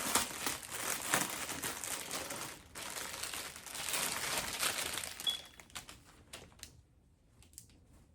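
Plastic packaging bag crinkling and rustling as it is handled and opened, with sharp crackles for about five seconds. After that it thins to a few scattered crinkles.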